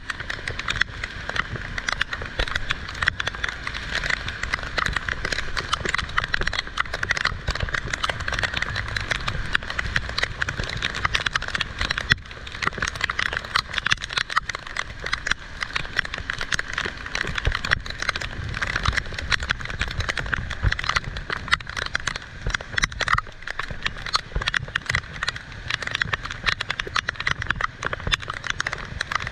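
Heavy rain falling steadily, a dense, irregular rain of drop impacts with no letup.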